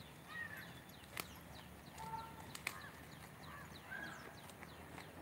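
Faint outdoor bird calls: many small high chirps and a few short arched calls, with scattered light taps.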